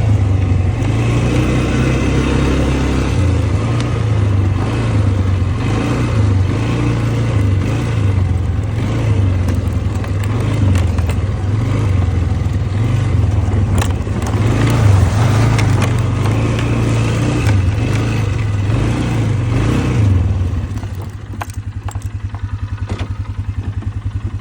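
Four-wheeler (ATV) engine running under way, its pitch rising and falling with the throttle, then settling to an even, pulsing idle about twenty seconds in.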